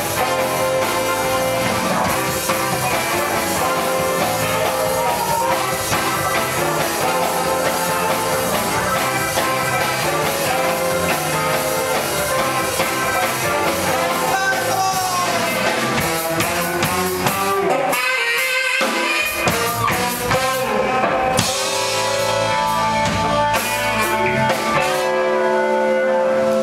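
Live band playing rock/blues music with electric guitar and drum kit, briefly thinning out about two-thirds of the way through.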